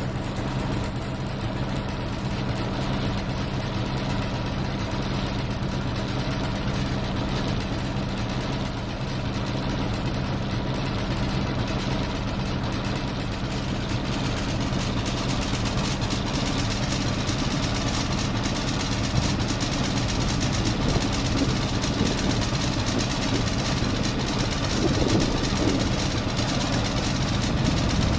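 A sailboat's auxiliary engine running steadily at low speed as the boat motors up a narrow harbour channel.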